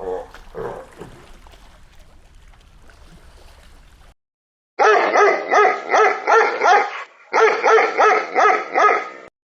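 A dog yapping rapidly in two runs of high-pitched barks, about three a second, after a few fainter calls at the start.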